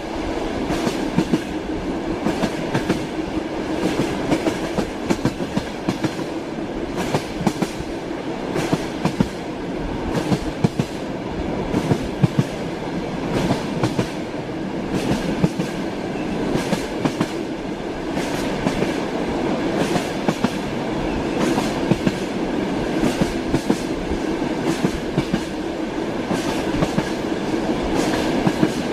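Train wheels clattering over the rails while the train moves: a steady rumble with frequent sharp clacks.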